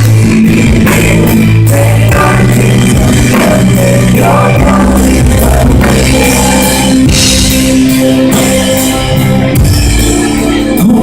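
A full band plays an instrumental passage of a contemporary worship song: drum kit, bass, electric guitar and keys holding sustained chords, loud and steady.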